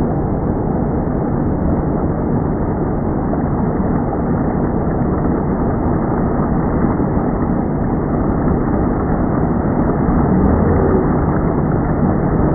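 Steady, unbroken rumble of a motorboat under way, engine noise mixed with wind on the microphone.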